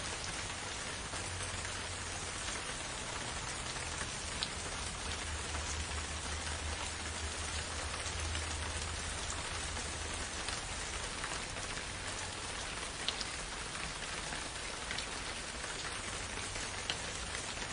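Steady rain falling, an even hiss with scattered louder drops ticking close by and a low rumble underneath.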